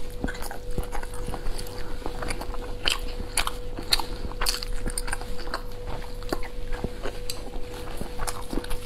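Close-miked mouth sounds of biting and chewing soft boiled dumplings dipped in chili sauce: irregular wet clicks and smacks. A steady faint hum runs underneath.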